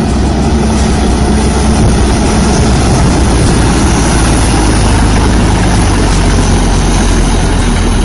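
Heavy vehicle engine running steadily, low and loud, with no sudden knocks or breaks.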